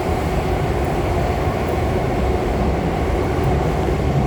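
Steady running rumble of an Alstom Movia R151 metro train in motion, heard from inside the carriage.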